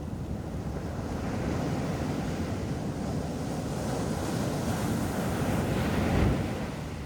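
Ocean surf breaking and washing up the beach, building to a peak about six seconds in and then easing off, with wind buffeting the microphone.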